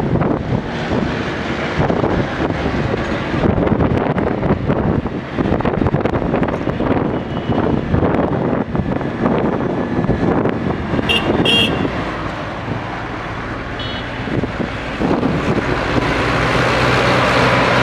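Diesel engine of a SANY SAG160-5 motor grader running while it levels soil, with a rough, uneven rumble. Short high beeps come twice past the middle, and a steady rushing noise grows louder near the end.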